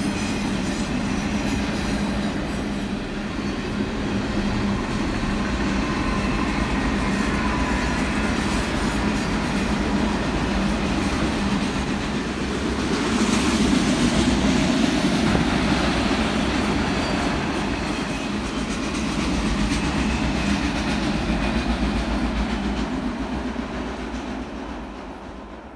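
Train rolling past: continuous rumble of wheels on rail with a steady low hum at first, growing louder about halfway through, then dying away just at the end.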